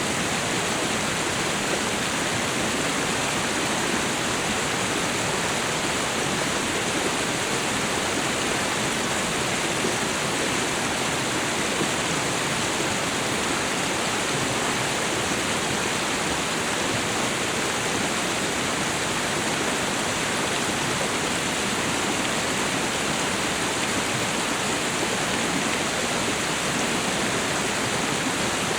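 Waterfall and river water rushing in a steady, even wash of noise.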